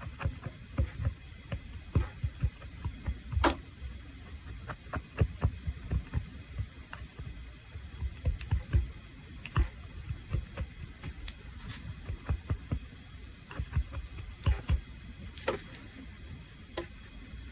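Irregular light clicks and taps with soft low knocks, the sound of small manicure tools and bottles being handled and set down on a tabletop.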